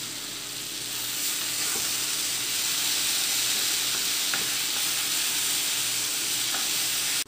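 A banana peel and green gram stir-fry sizzling in a hot pan while a wooden spatula stirs it. The sizzle grows louder about a second in, holds steady with a few faint scrapes, and cuts off suddenly at the end.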